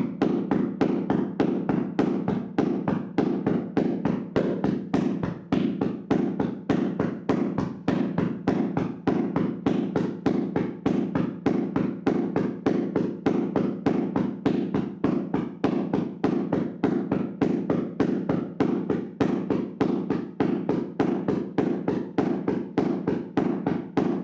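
Hands slapping and tapping rapidly on a person's body in a percussive massage, a steady even rhythm of about three to four strikes a second.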